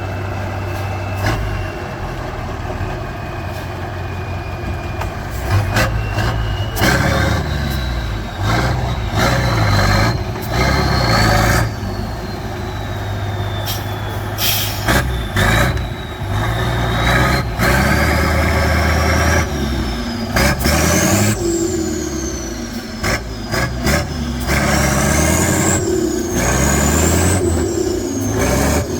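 Heavy off-road trial truck's engine revving up and easing off again and again under load. A high whine rises and falls with the revs.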